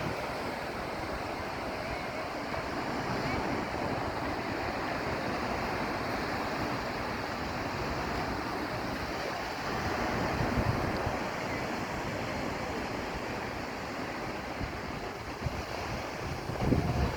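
Sea surf washing steadily onto the beach, with wind buffeting the microphone in low gusts about ten seconds in and near the end.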